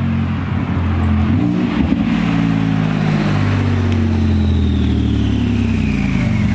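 Car engine running close by, revving up about a second and a half in, then its pitch falling slowly and steadily as the revs drop, with a high whine falling along with it.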